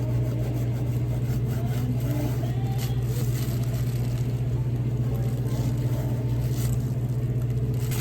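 Steady low mechanical hum at a constant pitch, with a couple of faint light clicks.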